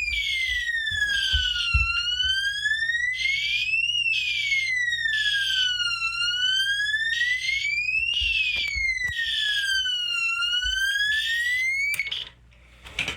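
Two fire alarm sounders going off together: a siren tone that rises and falls slowly, about four seconds a cycle, over a buzzy horn pulsing about twice a second. Both cut off suddenly near the end.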